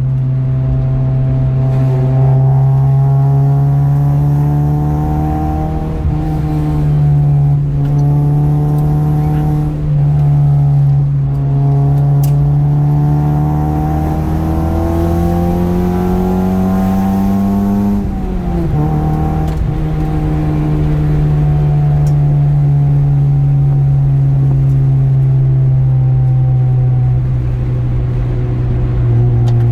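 Car engine and exhaust droning from inside the cabin under steady cruising. The revs climb slowly, drop sharply about two-thirds of the way through as the driver lifts off or shifts, and then hold steady.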